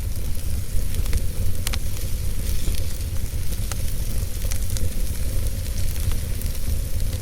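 Wood fire burning in a fireplace: a steady low rumble and hiss with scattered sharp crackles and pops, the clearest about a second and a half in.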